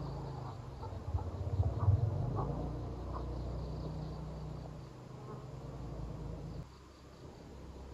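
Insect buzzing, with a sudden drop in level about two-thirds of the way through.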